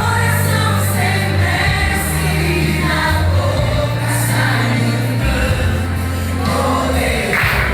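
Christian worship song performed with a group of singers over a band with a heavy sustained bass line.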